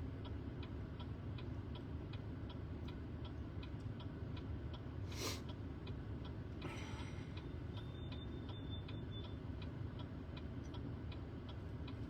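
Car turn-signal indicator ticking steadily, about three clicks a second, over the low hum of the idling engine inside the cabin. A brief rushing sound about five seconds in.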